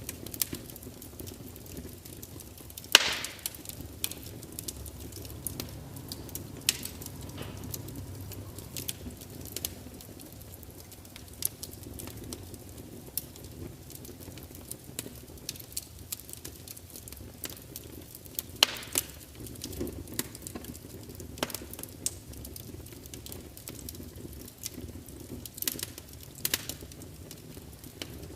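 Wood fire burning in a large fireplace: a steady low rumble of flames with scattered sharp crackles and pops from the logs. The loudest pops come about three seconds in and again near nineteen seconds.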